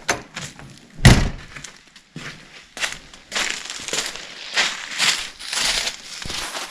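Hands-on work noises: a sharp knock at the very start and a louder one about a second in, then a string of short scraping, rattling sounds, typical of metal parts and tools being handled while working on a camper's furnace.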